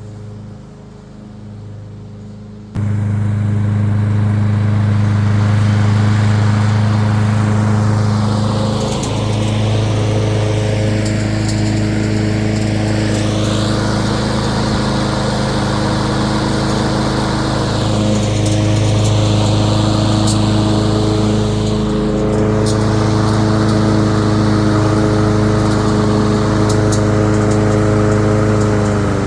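Masport Rotarola rear-roller petrol rotary mower running steadily under load while cutting long grass. It is muffled for the first few seconds, then abruptly becomes much louder and close.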